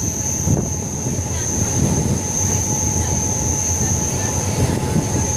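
MEMU electric passenger train running along the track: a steady low rumble of wheels on rail with a constant high-pitched whine over it.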